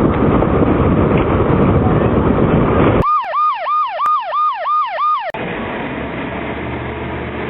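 A police car siren in a fast yelp, about six sweeps up and down in two seconds, starting and cutting off abruptly about three seconds in. Loud wind and road noise comes before it, and a lower steady rumble follows.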